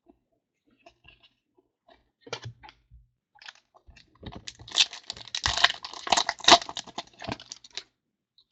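Trading-card pack being handled and opened: a few light clicks of cards and wrapper, then about four seconds in a dense run of crinkling and tearing as the foil pack wrapper is ripped open.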